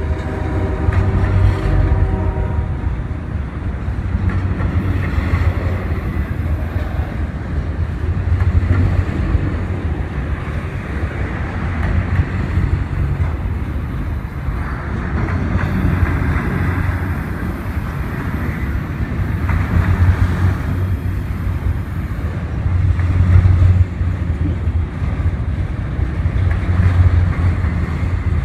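A train passing close by: the train's horn sounds briefly in the first two seconds or so, then a continuous heavy rumble of the train rolling past that swells and eases.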